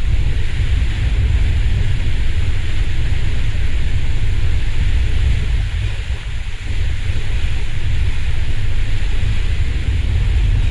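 Strong wind buffeting the microphone: a loud, unsteady low rumble with a hiss over it, easing briefly about six seconds in.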